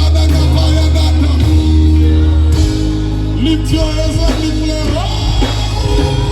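Live gospel worship band playing, with a voice singing a gliding melody over held bass chords; the bass note changes about two and a half seconds in.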